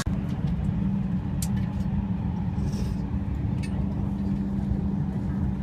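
Steady low hum of a moving vehicle heard from inside, with a few faint clicks.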